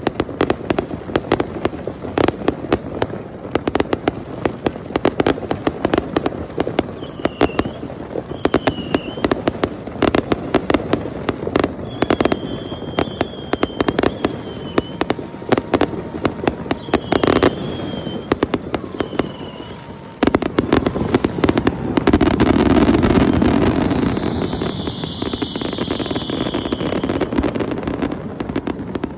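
Fireworks and firecrackers going off in rapid, near-continuous bangs, with short high whistles in the middle. About two-thirds of the way through the noise thickens into a denser, steadier barrage with a longer high whistle over it.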